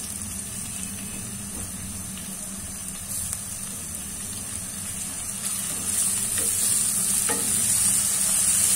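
Ginger-garlic paste and browned onions frying in hot oil in a metal pot, sizzling while being stirred with a spoon. The sizzle grows louder about six seconds in, with a few light knocks of the spoon against the pot.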